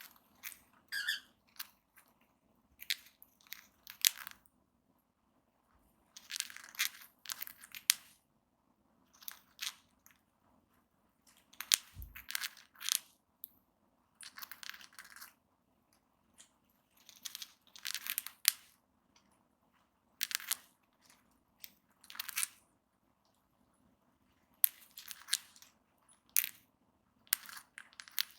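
Cockatiels grinding their beaks: short, dry, rasping bursts of clicking, about a dozen with quiet gaps between, and a single low thump about twelve seconds in. Beak grinding is the sign of a relaxed, contented cockatiel.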